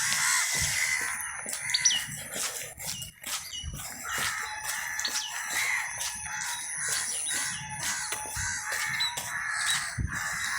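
A rooster crowing, with fowl clucking and other birds chirping, over frequent light knocks and clicks.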